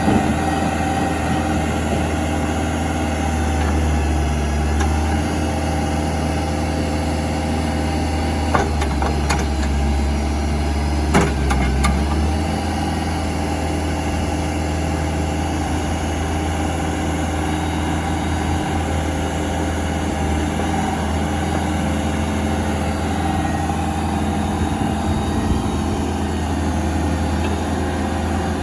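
Diesel engine of a 2007 Case 590 Super M Series 2 backhoe idling steadily, with a few short clicks or knocks between about eight and twelve seconds in.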